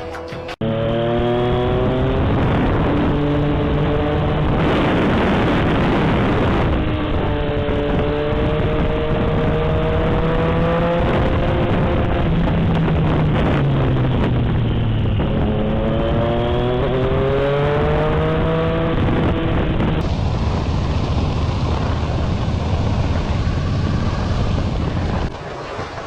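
Motorcycle engine accelerating hard, its pitch climbing and dropping back at each gear change, then falling as it slows about halfway through and climbing again. From about 20 seconds in, a steady rush of wind and road noise.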